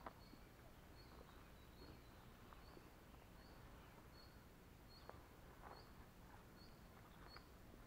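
Near silence with a faint bird call: one short high chirp repeated evenly, about one every second, and a few faint ticks.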